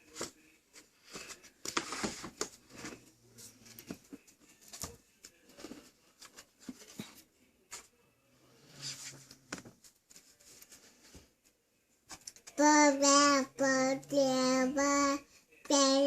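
A young child's voice: soft babbling at first, then loud singing in short held notes at a steady pitch, starting about three-quarters of the way in.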